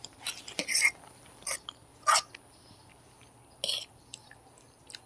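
Close-miked mouth sounds of eating Maggi noodles and fried egg: a handful of short, separate chewing and lip-smacking noises with quiet gaps between, the loudest about two seconds in.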